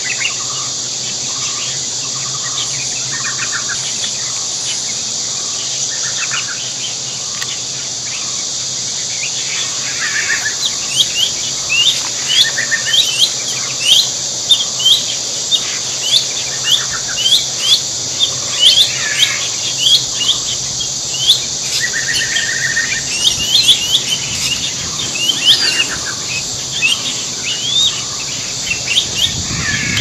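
Birds calling over a steady high insect-like hiss: a few soft repeated calls early on, then from about a third of the way in a busy run of many short, quick rising chirps.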